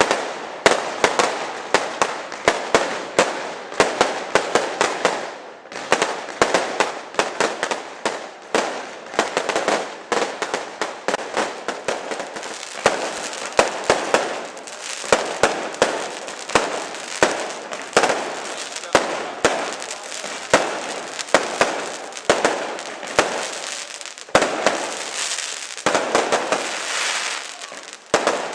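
Aerial fireworks display: a dense barrage of sharp bangs, several a second, over a continuous rush of crackling noise.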